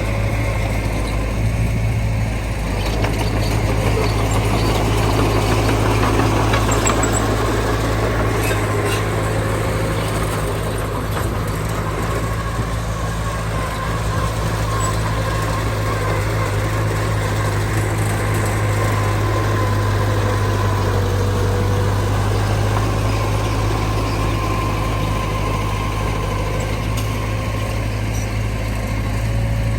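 Diesel engine of heavy earthmoving machinery running steadily at an even pitch, with a deep, constant hum.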